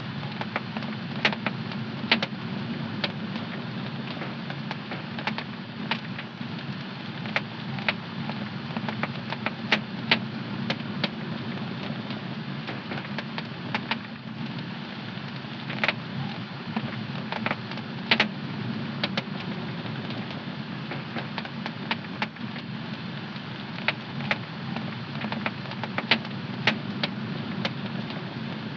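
Fire in a home fireplace crackling, with irregular sharp pops and snaps over a steady low rumble.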